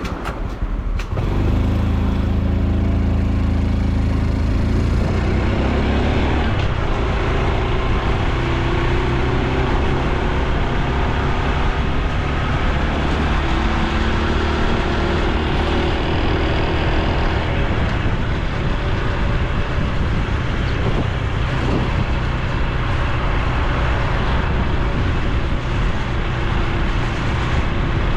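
Honda Super Cub C125's single-cylinder four-stroke engine and exhaust running while riding; about a second in it pulls away and the pitch climbs as it picks up speed, with road and wind noise under it.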